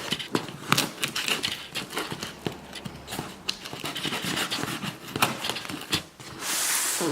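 Packaging being handled during an unboxing: scattered clicks and knocks with crinkling and rustling, and a longer hissing rustle near the end.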